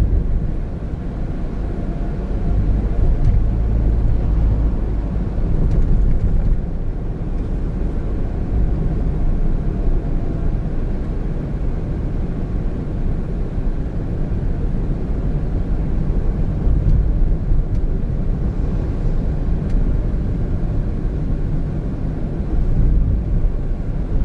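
Steady low rumble of road and engine noise inside the cabin of a 2017 Honda N-BOX Custom, a 660 cc turbo kei car, while driving.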